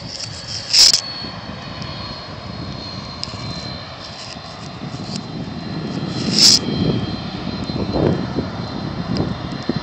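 Air Transat Airbus A310 jet airliner's engines as it lands: a steady rush with a thin high whine over it, and a low rumble swelling again near the end. Two short sharp clicks stand out, about a second in and about six and a half seconds in.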